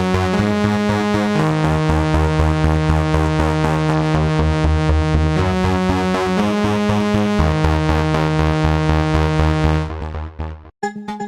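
Cherry Audio Ensoniq ESQ-1 software synthesizer playing a bright, sustained chord patch over a rapidly pulsing bass, the chords changing every second or few. It fades out about ten seconds in, and a different patch starts just before the end.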